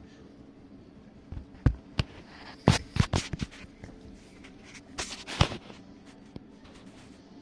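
GE dishwasher running quietly in its final rinse with a steady low hum, broken by a series of sharp scrapes and knocks, several in quick succession about three seconds in and another pair about five seconds in.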